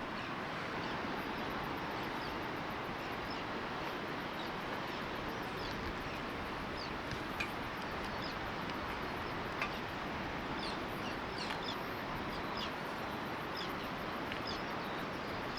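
Steady wash of surf on a beach, with scattered short, high, falling bird chirps throughout.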